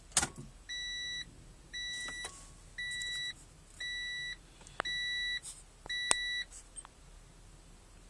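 1992 Acura Legend's warning chime beeping six times, evenly at about one beep a second, with a few sharp clicks among the beeps.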